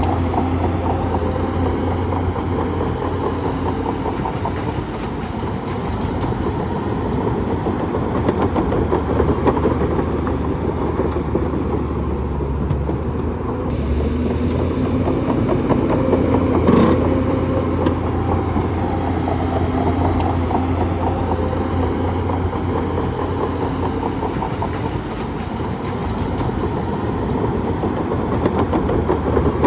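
Bulldozer engine running steadily with a dense rattling clatter over its low hum, and one sharp knock about seventeen seconds in.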